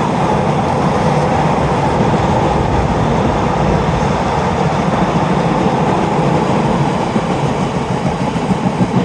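Freightliner freight train of mixed hopper and box wagons passing close by, its wheels running on the rails in a loud steady rumble that turns to an uneven clatter near the end.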